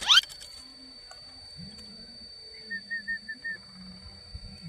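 Bird-like whistled calls: one loud, sharp rising whistle right at the start, then a quick run of five short chirps about three seconds in, over a thin steady high-pitched tone.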